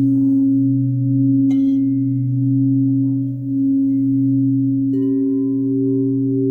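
Crystal singing bowls ringing in long, sustained low tones that waver slowly. There is a light tap about a second and a half in, and about five seconds in a higher bowl is struck and joins the drone.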